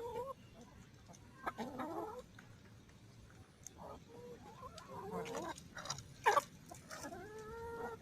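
Backyard hens clucking and calling in short bursts while feeding on scraps, with sharper pecking clicks here and there, loudest about six seconds in.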